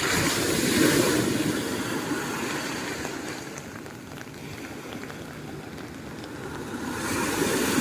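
Rushing storm noise at the shore in typhoon weather, with wind, rain and surf mixed together. It is loud at first, eases in the middle and builds again near the end.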